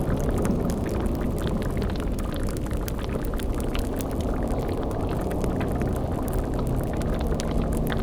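Steady low bubbling rumble of a boiling cauldron with scattered fire crackles, part of a layered spooky ambience. A faint low steady drone comes in about halfway through.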